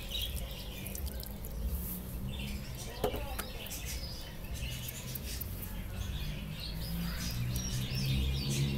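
Small birds chirping on and off, with a single sharp knock about three seconds in.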